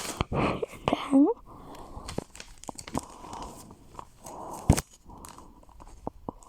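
Rustling and clicking of things being handled and packed into a bag, with a brief squeak about a second in and one sharp knock a little before five seconds in.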